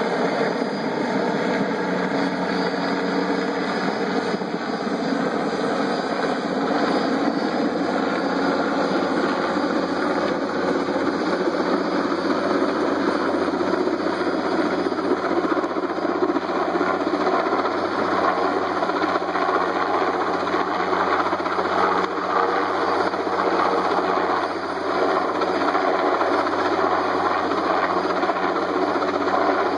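Firefighting helicopter's rotor and engine running steadily and loudly, without letting up.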